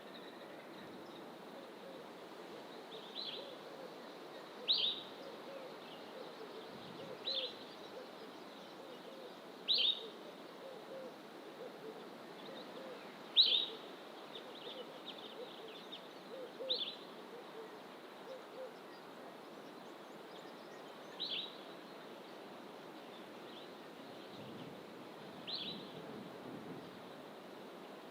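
Wild birds calling in fynbos bush: one bird repeats a short, sharp high call every few seconds, while softer low notes come and go through the first two-thirds, over a steady background hiss.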